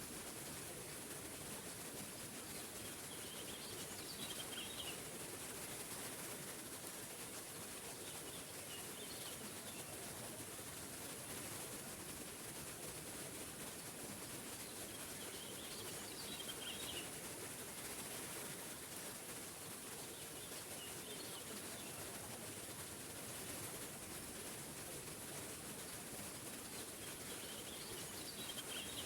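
Steady rush of a small waterfall, with a bird singing short phrases about five times at intervals of several seconds.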